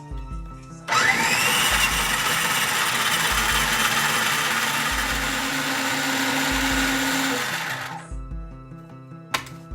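Electric kitchen blender switched on about a second in, its motor whining up to speed and running steadily for about seven seconds before it stops. Background music plays underneath, and there is a sharp click near the end.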